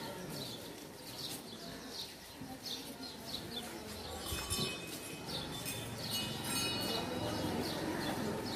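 Small birds chirping over and over, short high calls with a few longer trilled notes midway, over a low steady street hum.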